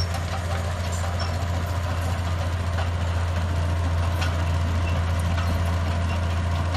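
Heavy diesel engine of earthmoving machinery running steadily with a low, even drone, and a few faint clicks and knocks above it.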